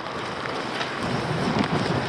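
Wind buffeting the camera microphone: a steady rushing noise with an uneven low rumble.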